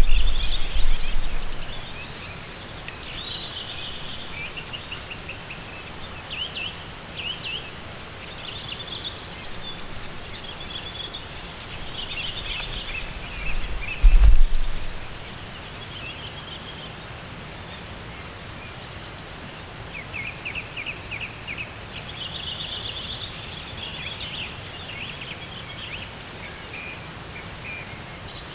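Small songbirds chirping and trilling repeatedly in short phrases over faint background hiss. A loud low rumble on the microphone comes in the first second and again about halfway through.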